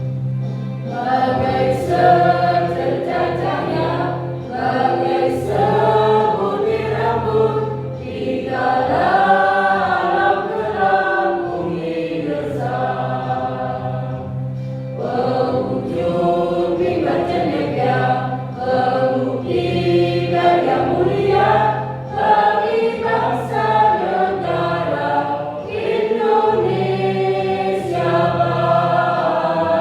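A choir singing a song in parts over steady instrumental accompaniment, with short breaks between sung phrases every few seconds.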